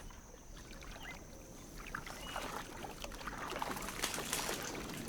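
Water sloshing and lapping with small irregular splashes and drips as manatees move and surface among mangrove roots, growing slightly louder toward the end. A faint steady high tone sits underneath.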